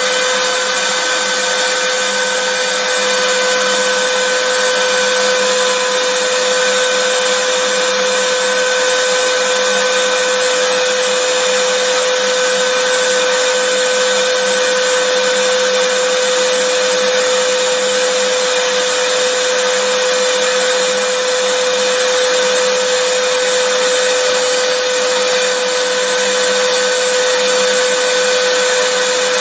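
Vacuum cleaner running continuously at constant speed: a steady motor whine over a rushing hiss of air, with no change in pitch or level.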